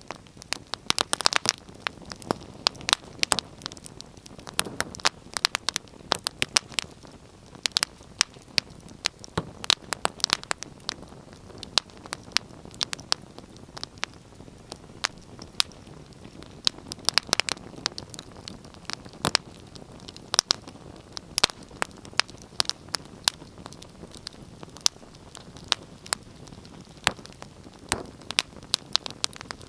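Wood fire crackling: irregular sharp pops and snaps, bunched in clusters, over a soft steady hiss of burning.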